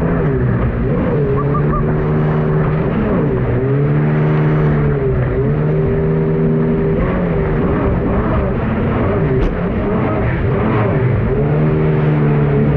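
Turbocharged Honda engine of a mini jet boat running hard, its revs dipping and climbing back again and again, every couple of seconds, over a steady rushing noise.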